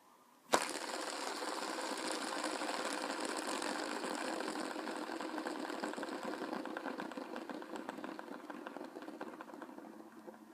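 A sharp click, then a steady fast mechanical buzzing rattle that slowly fades out.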